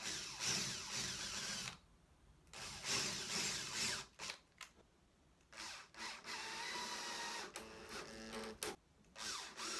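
Cordless drill running in short bursts into the wood of a bifold door end, recessing the screw heads: about four runs, a longer one a little past halfway with a steady motor whine, separated by pauses.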